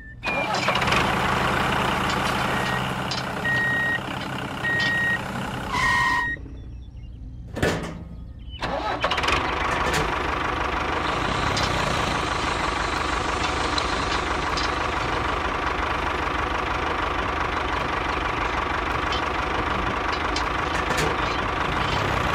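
Tractor-like engine running. Short high beeps sound several times in the first six seconds, the sound breaks off with abrupt cuts about six to nine seconds in, and then it runs steadily.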